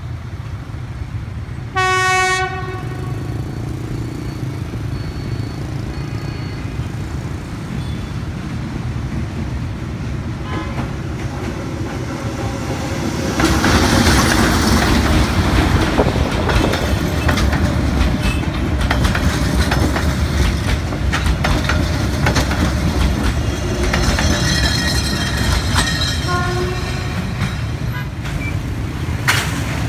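Diesel locomotive hauling a passenger train over a level crossing: one short, loud horn blast about two seconds in, then a steady low rumble that grows louder about halfway through as the train passes close, with the wheels clacking over the rails.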